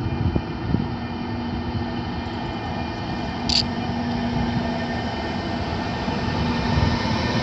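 An FS E.402 electric locomotive and its train approaching: a steady rumble with a steady hum, slowly growing louder toward the end, with a brief high squeak about three and a half seconds in.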